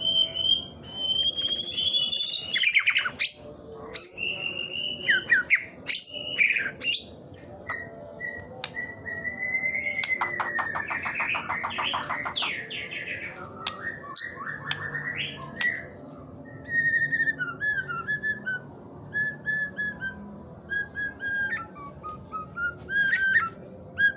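White-rumped shama singing: a varied run of loud whistled phrases with sliding notes, a rapid stuttering trill about ten seconds in, then shorter clipped chirps.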